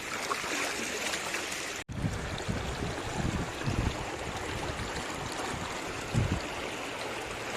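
River water rushing steadily, with the current running strong after rain. About two seconds in the sound cuts abruptly, and low rumbling bumps follow.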